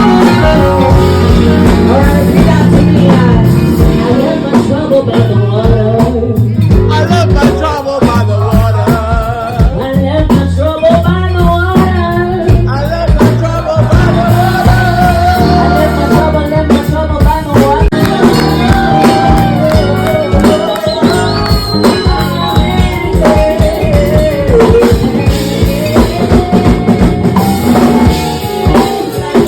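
Live band music with drum kit and guitar, and a sung melody line.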